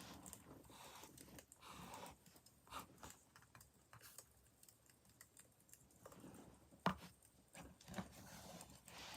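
Faint crackling of a burning wood fire: irregular small crackles with one sharper pop about seven seconds in.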